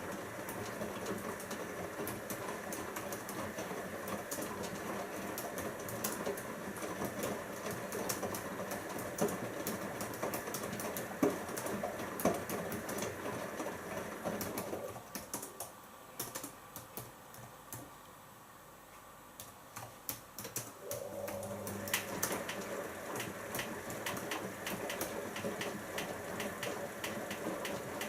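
Siemens iQ front-loading washing machine's drum turning during a rinse, laundry tumbling through the water with fast light clicking. It pauses about fifteen seconds in, going much quieter, then starts turning again about six seconds later, the usual stop-and-reverse of the drum.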